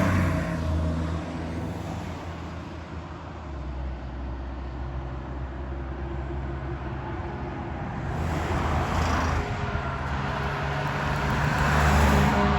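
Fire truck engine running past with tyre and road noise, fading after the siren passes and then growing louder again near the end as more apparatus approaches.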